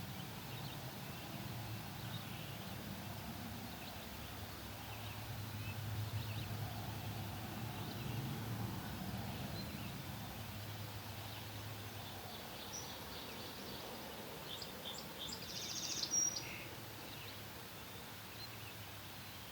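Ruffed grouse drumming, a low hum-like drumming that grows stronger from about four to twelve seconds in, under scattered songbird chirps. Near the end a single bird gives a louder, brief high call.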